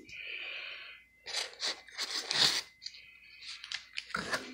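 A cardboard shipping box and its packing being opened by hand: a second of steady tearing, then a run of short crunching, crinkling bursts as the packing is pulled apart.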